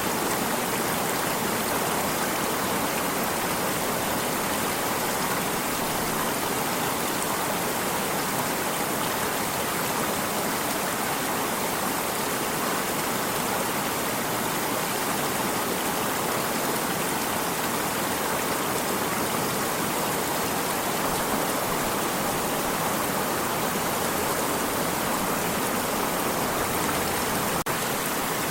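Stream water running steadily: an even, unbroken rush.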